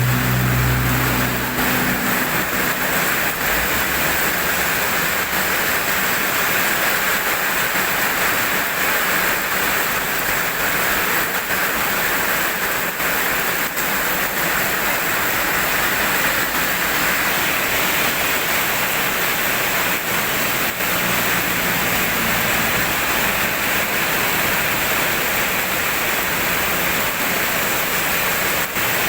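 Rain falling steadily, an even hiss, with a low rumble in the first few seconds and again about 21 seconds in.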